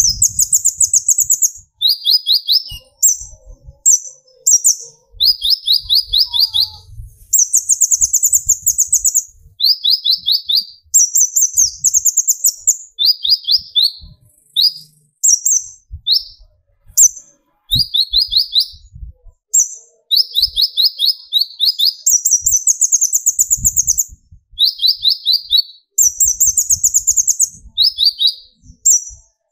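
Kolibri ninja (konin) sunbird singing its fast 'tembakan' song: a continuous run of rapid trilled phrases, each about half a second to a second and a half long, switching back and forth between a higher and a lower pitch with short gaps between them.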